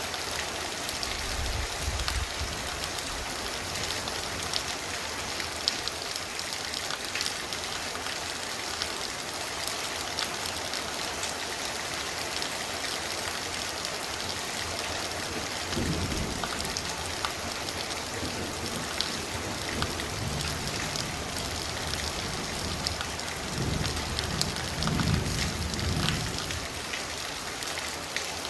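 Heavy, torrential rain falling steadily, with low rumbles about half way through and again near the end.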